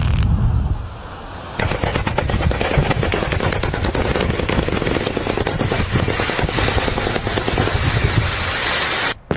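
Rock blasting explosions for road building or mining: a deep rumble dying away in the first second, then, starting suddenly about a second and a half in, a dense rapid run of cracks and crackling that stops abruptly near the end.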